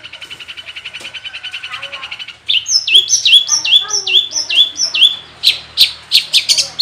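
Long-tailed shrike (cendet) singing. A fast, quiet chattering trill gives way about two and a half seconds in to a loud string of repeated slurred notes, each dropping in pitch, about three a second. The string then breaks into sharp separate chips.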